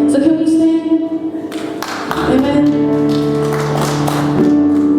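Slow praise and worship music from a church worship band: long, held chords with a voice singing softly.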